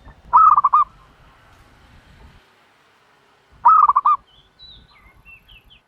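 Turtle dove calling: two loud bursts of four or five quick rising-and-falling notes, about three seconds apart, with fainter high chirps near the end.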